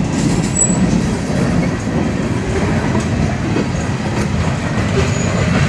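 Freight train cars rolling past close by: a steady, loud rumble of steel wheels on the rails, with a brief high squeal about half a second in.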